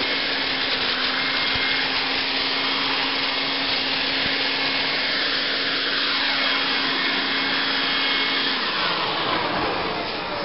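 Electric Toro Super Blower/Vac in leaf-vacuum mode running at full speed, a steady rush of air with a steady whine, drawing leaves in. Near the end it is switched off and its pitch falls as the impeller spins down.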